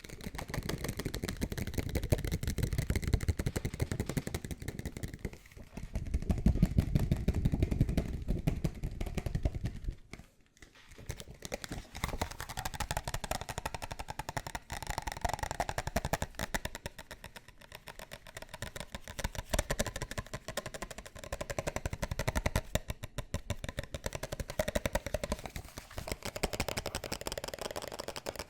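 Fast tapping and scratching on objects, a dense run of quick strokes whose texture changes every few seconds as the surface changes, with a brief pause about ten seconds in.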